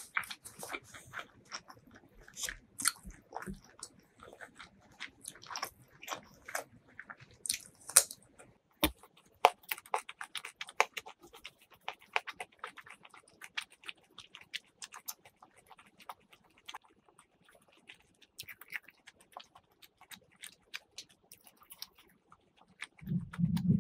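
Close-miked chewing of spicy duck curry: a steady run of short wet smacks and clicks of lips and tongue. A brief low hum sounds near the end.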